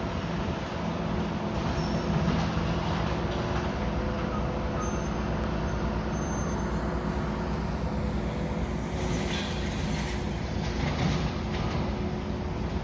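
Heavy diesel demolition machinery running steadily, with a short stretch of rougher clatter about nine seconds in.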